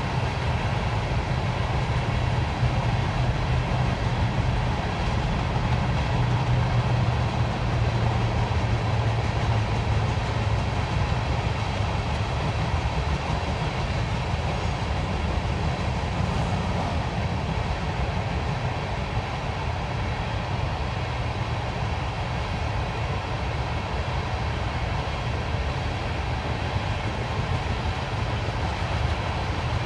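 Norfolk Southern train rolling past: a steady, continuous rumble of wheels on the rails, strongest in the low end during the first third and then easing slightly.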